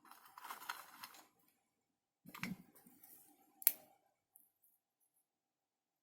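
Crackling and rustling of a snack packet being handled, in two short bursts, the second ending in a sharp click.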